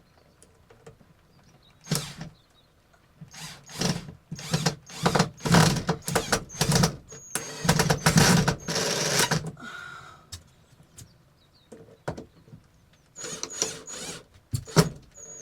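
Electric screwdriver driving screws into a wooden shed panel in several short bursts with pauses between them, the longest run about halfway through.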